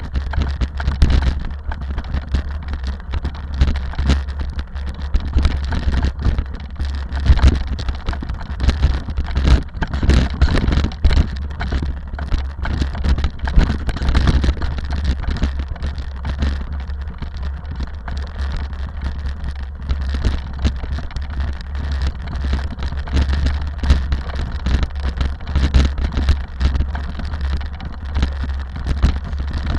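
A rally car driving steadily: a constant low engine drone under a dense, continuous crackle of road and tyre noise.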